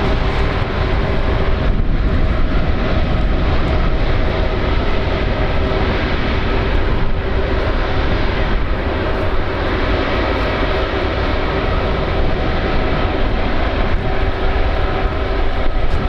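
Airbus Beluga XL's jet engines running steadily: a constant whine of several held tones over a deep rumble.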